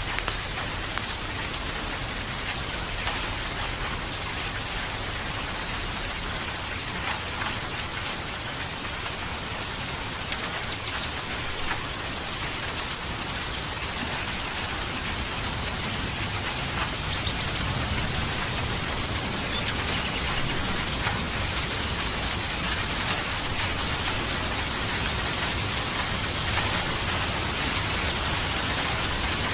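Steady rain falling, with scattered drops ticking on a surface; it grows slightly louder about halfway through.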